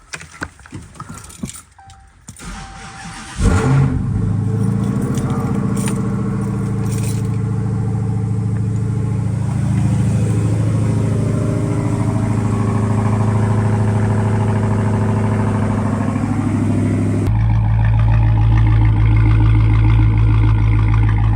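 Dodge Hellcat's supercharged 6.2-litre Hemi V8 being started in freezing blizzard conditions. After a few light clicks it fires about three and a half seconds in with a loud flare, then settles into a steady idle that grows deeper and louder near the end.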